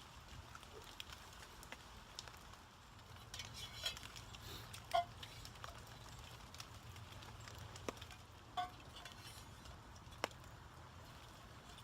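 Spoon clinking lightly against a metal cooking pot a couple of times, with a few sharp isolated ticks over a faint steady background.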